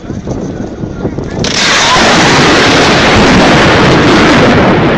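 A very loud, close thunderclap from a nearby lightning strike: it cracks in suddenly about a second and a half in and keeps rumbling on.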